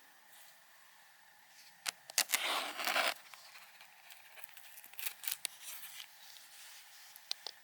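Rustling, tearing handling noise lasting about a second, about two seconds in, followed by scattered light clicks and crinkles.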